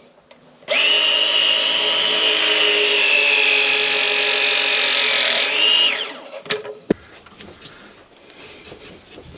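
A handheld power tool's electric motor runs at a steady speed for about five seconds, then winds down in pitch and stops, followed by a couple of sharp clicks.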